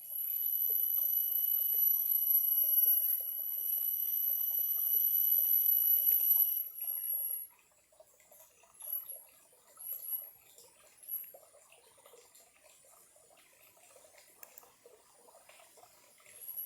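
A small stream trickling faintly, under a loud, steady, very high-pitched whine that cuts off about seven seconds in. A few short, high chirps follow.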